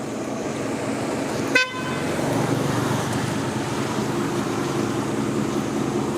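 A vehicle horn gives one short toot about a second and a half in, over a steady background of road traffic.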